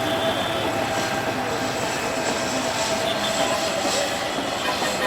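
Metre-gauge passenger coaches of an intercity train rolling slowly into the station, with a steady squeal from the wheels over the rumble of the running gear.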